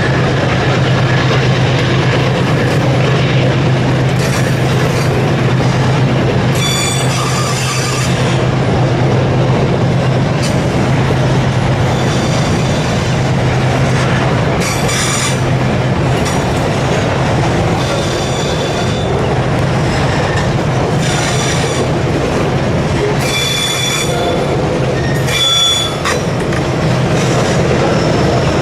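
Freight train rolling past with a steady low rumble, its wheels squealing in high-pitched bursts several times as the cars go by.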